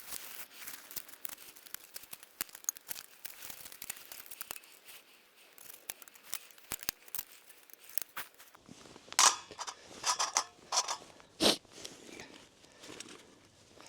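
Walking boots crunching and scraping along a path in an irregular patter of small crackles, then several heavier, louder steps about nine to twelve seconds in.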